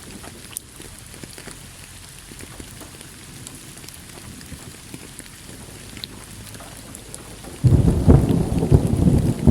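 Steady rain pattering, with scattered drops striking close by. Near the end a clap of thunder breaks in suddenly and goes on as a loud, deep rumble.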